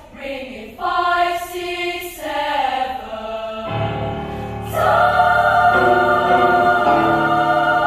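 Children's choir singing in harmony; about four seconds in a low held note comes in underneath, and soon after the voices swell into a loud sustained chord.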